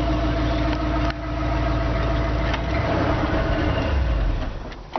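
A heavy engine running with a steady low rumble, fading away near the end.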